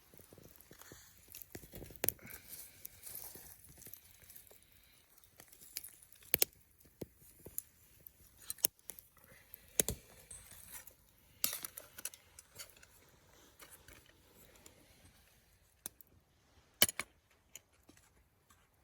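Scattered clinks, taps and light rustling of camp cookware and utensils being handled, about half a dozen sharp clinks standing out among softer handling noise.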